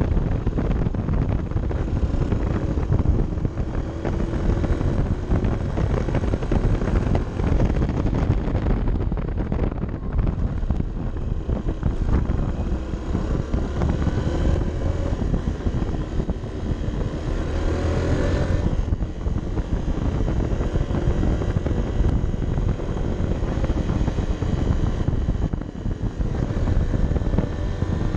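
Honda CB 125 F's small air-cooled single-cylinder four-stroke engine running under way, heard from a camera mounted on the bike, with heavy wind buffeting over the microphone. The engine note climbs for several seconds past the middle and then drops suddenly.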